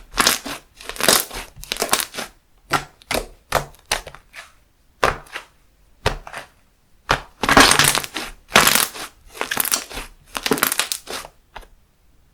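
Handmade slime being squeezed and pressed by hand, giving a string of about a dozen irregular crackly squishes. The longest and loudest ones come in the second half.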